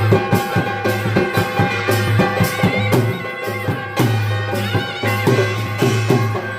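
Instrumental interlude of Odia folk devotional music (Danda Nacha song): quick drum strokes under a sustained melody line with a low drone.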